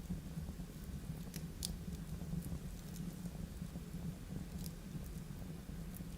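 Wood fire burning in a fireplace: a steady low rumble from the flames, with scattered sharp crackles and pops from the burning logs.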